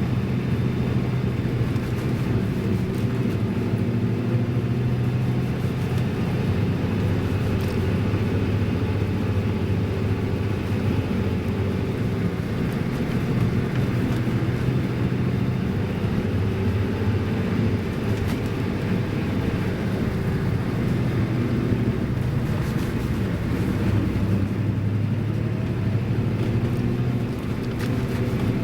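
Toyota Land Cruiser HJ60's 2H inline-six diesel engine running steadily under way, its note shifting slightly in pitch a few times with the revs.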